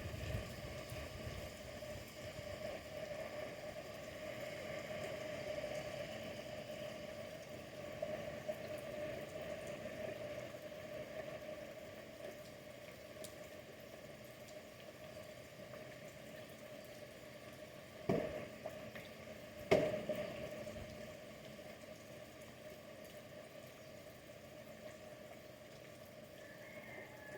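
Steady background hiss with a faint steady hum, and two sharp knocks about a second and a half apart late on, the second louder.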